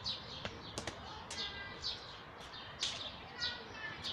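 Birds chirping, short high chirps that fall in pitch, about two a second. A few sharp taps come in the first second.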